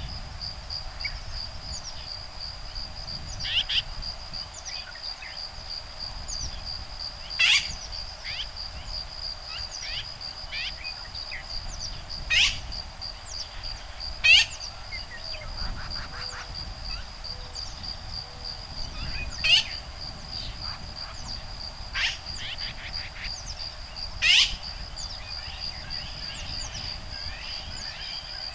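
Woodpeckers and other birds calling back and forth, with a sharp, loud call every few seconds and many fainter chirps between, over the steady high-pitched whine of insects.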